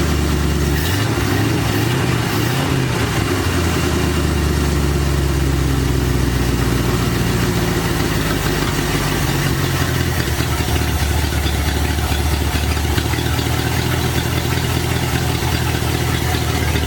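1973 Dodge D100's 318 V8 running on its first start after sitting, the revs rising and falling a few times in the first three seconds, then settling to a steady idle. It runs "old and angry".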